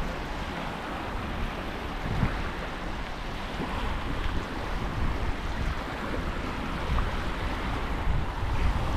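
Waves lapping and washing on a sandy shoreline, with wind rumbling in gusts on the microphone.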